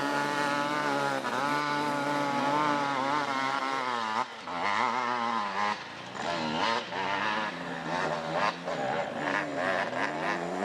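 Off-road dirt bike engine revving, its pitch rising and falling over and over as the rider works the throttle; after about four seconds the throttle gets choppier, with short breaks and bursts.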